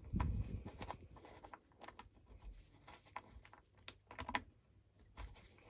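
Light, scattered clicks and taps of small parts being handled and fitted, with a duller knock right at the start and a quick cluster of clicks a little past the middle.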